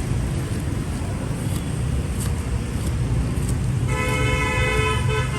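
Road traffic rumbles steadily, and near the end a vehicle horn sounds one long, steady note.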